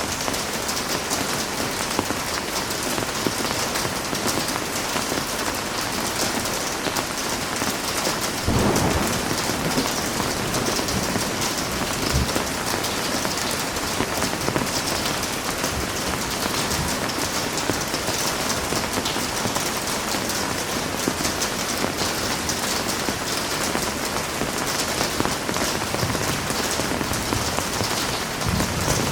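Heavy rain falling steadily, with a low roll of thunder about nine seconds in.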